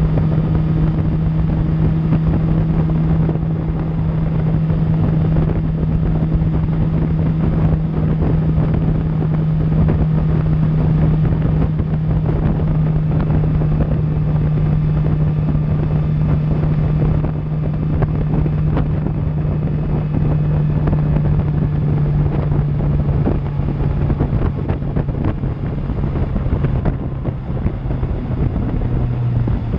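2000 Suzuki GSX-R750's inline-four engine running at a steady cruise through an Akrapovic exhaust, its note holding level and dropping slightly near the end, with wind rushing over the camera microphone.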